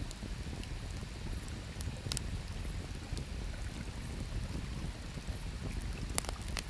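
Campfire wood crackling, with a few sharp pops: one about two seconds in and two close together near the end. Under them runs a steady low rush of river water.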